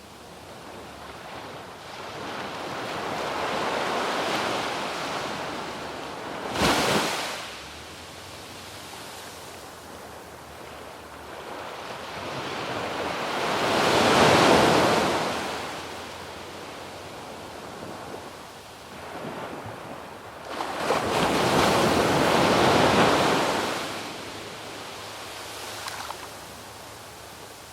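Waves breaking and washing up a sandy beach: three long rushes of surf that swell and fade several seconds apart, with a short sharp burst about seven seconds in.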